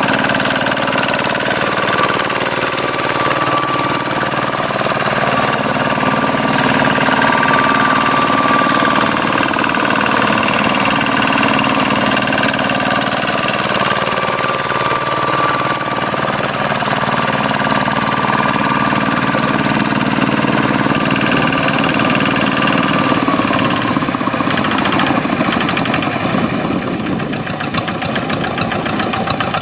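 Hand tractor's diesel engine running steadily, its pitch shifting about three-quarters of the way through; near the end its separate firing pulses come through as a rapid, even beat.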